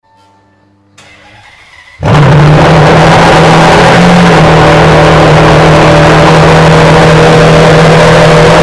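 Ferrari Enzo's V12 engine starting: about two seconds in it fires and runs loud and steady at a fast cold-start idle, with one brief small rise in pitch near four seconds in. It echoes in an enclosed garage.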